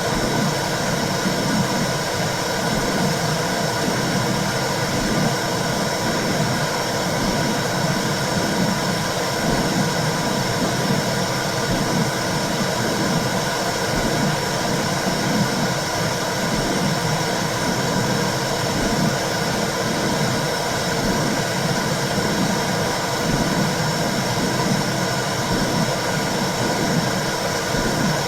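Womb sound: a steady whooshing rumble with a rhythmic pulsing in the low range, over an even hiss.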